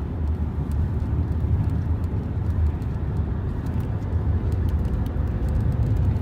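Steady low rumble of a vehicle driving, engine and road noise without a break.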